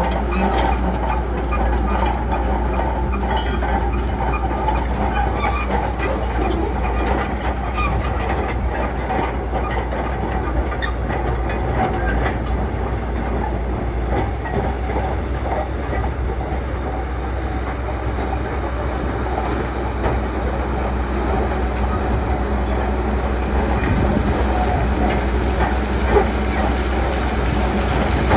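Shantui crawler bulldozer's diesel engine running steadily under load, with continual clanking and rattling from its steel tracks.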